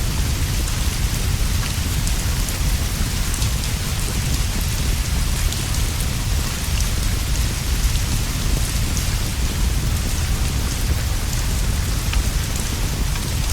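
Steady heavy rain falling on leaves and a roof, an even hiss with a deep, continuous rumble underneath and many faint scattered ticks of drops.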